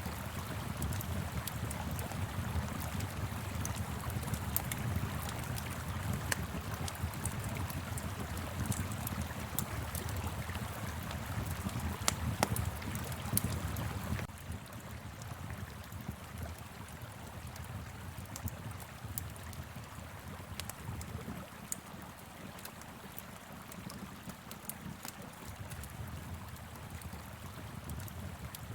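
Fire pit crackling with frequent sharp pops over the steady rush of a flowing river and a low wind rumble. The whole bed drops quieter about halfway through.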